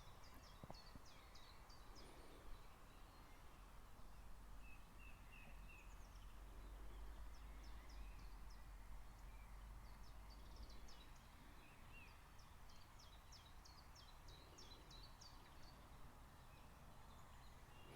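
Quiet forest ambience with faint small birds calling in quick series of high chirps, twice, over a low steady rumble.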